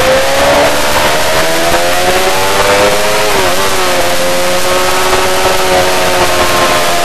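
Yamaha R6 inline-four engine running hard, its pitch climbing for about three seconds. A brief sharp dip in pitch follows, then it holds high and eases slowly. A steady rush of wind noise runs over it.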